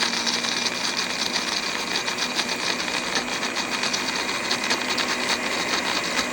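Electric blender running steadily at speed with a fast, even motor whir, grinding pistachios with a little water into a paste.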